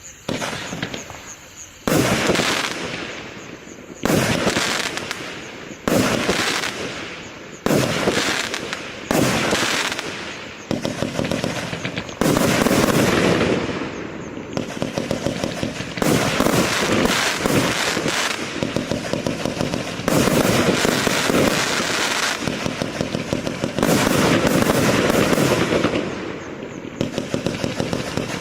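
Multi-shot fireworks cake (61 shots, 1-inch calibre) firing: separate shots about every two seconds for the first ten seconds, each bang fading away, then quicker, near-continuous volleys that run on almost to the end.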